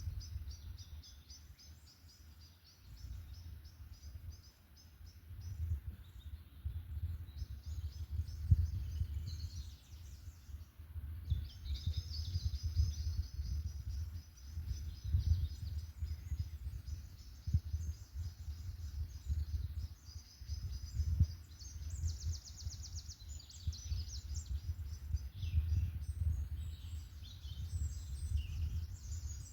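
Several forest songbirds singing at once, a mix of chirps, warbles and fast trills, over a steady low, fluctuating rumble.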